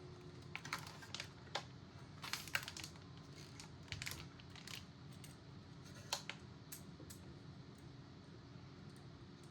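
Light, irregular clicks and taps of small CPU cooler mounting parts being handled on a motherboard, thickest in the first few seconds and dying away after about seven seconds.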